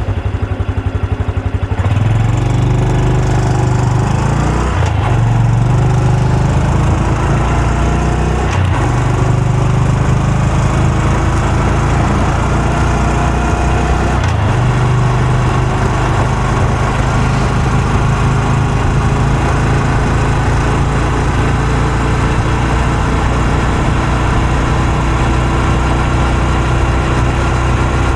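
Honda Super Cub C125's air-cooled 125 cc single-cylinder four-stroke engine and exhaust while riding. It starts with slow, low firing pulses, picks up speed about two seconds in, and its pitch shifts several more times in the first fifteen seconds before it settles to steady running.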